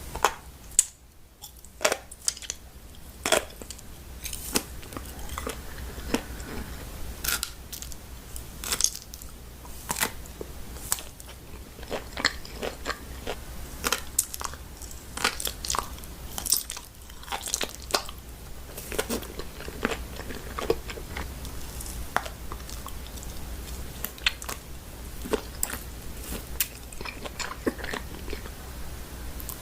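Close-miked eating of crunchy food: irregular sharp crunches and bites with chewing, over a low steady hum.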